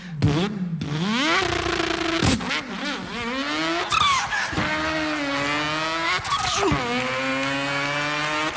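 A man imitating a racing car engine with his mouth: one buzzing, engine-like tone that climbs and falls in pitch, broken sharply about three times like gear changes.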